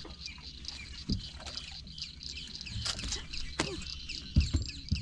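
Steady high-pitched insect chorus over a low rumble, with a few sharp knocks in a boat: one about a second in and two louder ones near the end.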